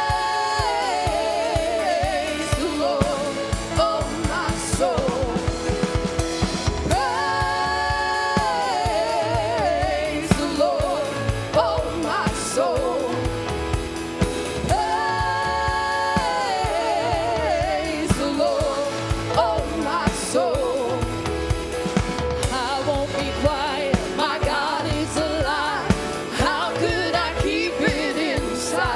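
Live gospel worship music: singers over a band with drum kit, with several long held sung notes with vibrato and melodic runs between them.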